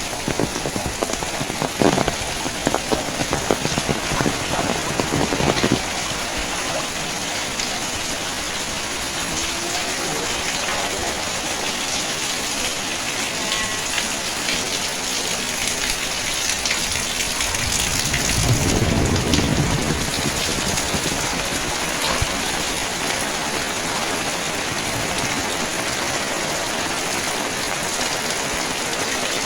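Steady heavy rain falling and splashing on surfaces, with a few sharp knocks in the first few seconds. About two-thirds of the way through, a low rumble swells and fades.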